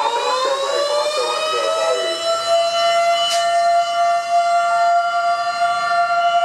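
Emergency vehicle siren rising in pitch over the first second or so, then holding one steady wail. A brief sharp click about halfway through.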